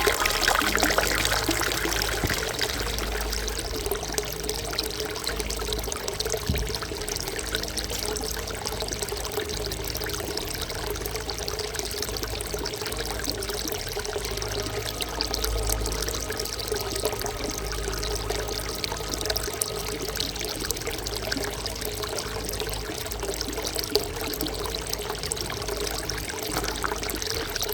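A thin stream of water pouring steadily into a stone basin (dolhwak), splashing and trickling without a break.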